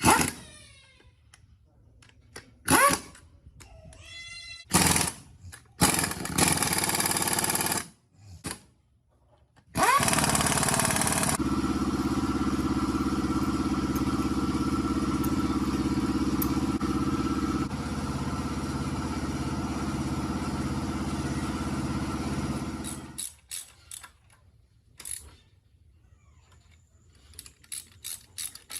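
A few short knocks and scrapes, then an engine starts about ten seconds in. It runs steadily with an even low pulse for about twelve seconds, drops slightly in speed partway through, and cuts off suddenly.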